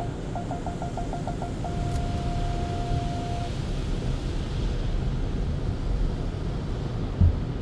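Automated car wash equipment running with a steady low rumble, heard from inside a car going through the wash. About half a second in, a quick run of electronic beeps turns into one held beep lasting about two seconds, and there is a single thump near the end.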